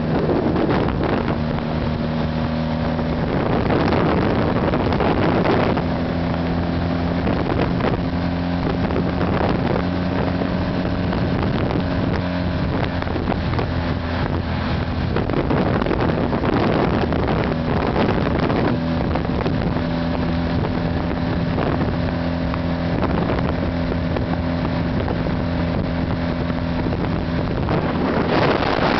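1979 Honda CB400T's parallel-twin engine running at road speed, its pitch steady for long stretches with a few changes in engine speed. Wind noise on the microphone mixes in and swamps the engine at times, most heavily near the end.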